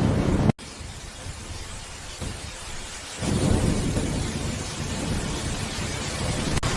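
Steady rain with rolling thunder. A loud low rumble cuts off abruptly about half a second in, and another rumble of thunder builds about three seconds in and carries on under the rain.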